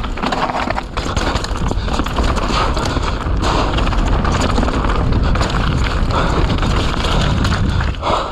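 Mountain bike descending a wet trail at high speed: tyres rolling over wet dirt and roots, with rapid clattering and knocks from the chain and frame over bumps, under heavy wind rumble on the microphone.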